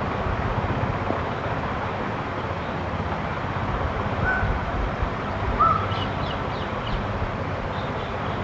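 Two short bird calls about four and five and a half seconds in, the second the louder, followed by faint high chirps, over a steady outdoor rumble like wind.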